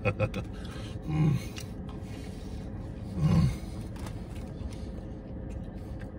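A man chewing a toasted grilled cheese sandwich, with soft rubbing mouth sounds and two short vocal sounds about a second and about three seconds in, over a steady low hum.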